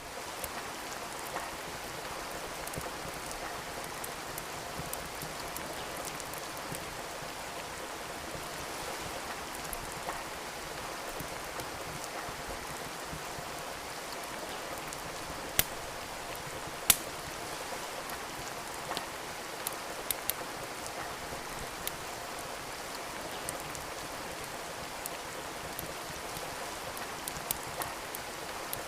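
Steady rain hiss mixed with a crackling wood fire: sharp pops scattered through, the two loudest a little past halfway and a cluster of smaller ones soon after.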